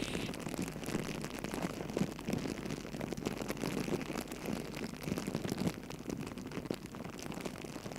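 Campfire crackling: a steady hiss of burning with many small irregular pops and snaps.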